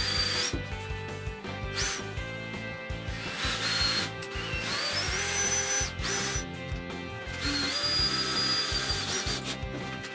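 Power drill running in several bursts of one to two seconds, each with a steady high whine, over background music.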